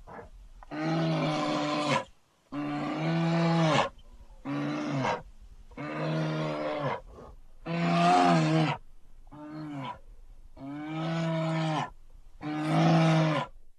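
A series of about eight separate bear roars, each lasting up to about a second and a half, with short pauses between them.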